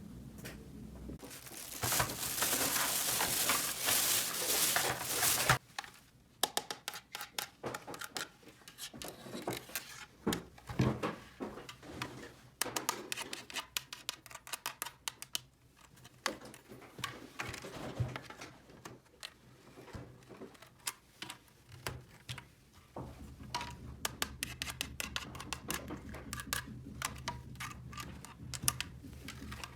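Plastic packaging rustling for about four seconds, then a long irregular run of small clicks and taps from small plastic toy pieces being handled.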